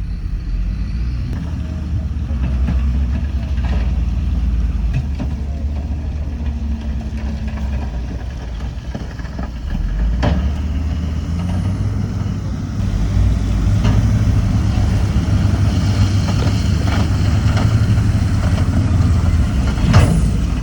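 Heavy diesel engines of earthmoving machines running on a fill site. The engine note steps up about halfway through and again soon after, as if working under more load, with a sharp knock about halfway and another near the end.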